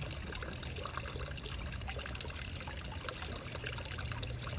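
Water trickling steadily while a thirsty dog drinks from it, with many small quick splashes from its lapping. A steady low rumble runs underneath.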